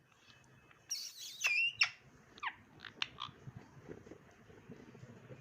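Indian ringneck parrot calling: a burst of shrill, high squawks about a second in, the sharpest near the middle, followed by a few short falling chirps.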